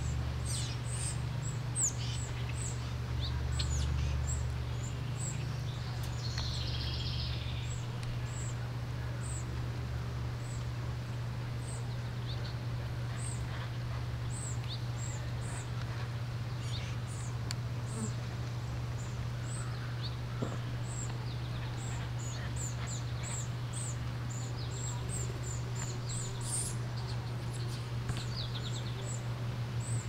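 Small birds chirping: short, high, thin chirps repeated throughout, more frequent in the second half, over a steady low hum.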